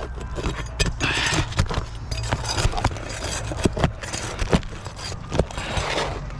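Hand tools scraping, clicking and knocking against asphalt roof shingles in a quick, irregular series, over a steady low rumble.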